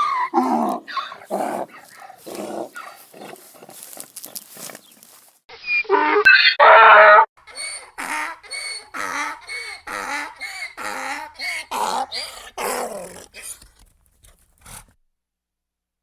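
Donkey braying: a long run of rhythmic hee-haw cycles, about two a second, louder for a stretch around six seconds in, stopping abruptly near the end.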